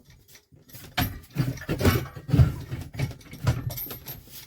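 Metal parts of a motorbike lift jack being handled, with a string of irregular clanks and rattles from about a second in until near the end.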